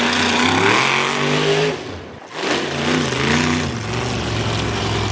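Monster truck engine revving up twice, its pitch rising each time, with a brief break between the two revs, then running steadier near the end.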